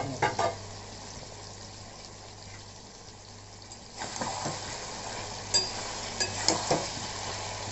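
Chicken liver and fat pieces sizzling gently in masala gravy in a metal kadhai. About four seconds in, a spatula starts stirring: the sizzle grows louder and the spatula clicks sharply against the pan several times.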